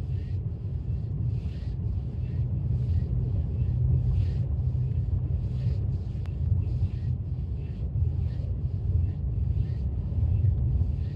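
Blizzard wind buffeting the microphone in a heavy, steady rumble, with a short hissing swish repeating about every two-thirds of a second.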